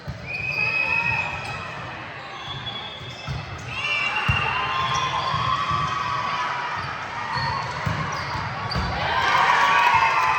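Indoor court sounds during a volleyball rally: short high squeaks of shoes on the court floor, a few ball thumps, and players calling out, with the voices loudest near the end.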